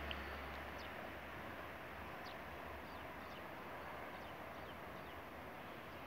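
Small birds giving faint, short, high chirps scattered over a steady outdoor hiss; a low distant engine hum fades out about a second in.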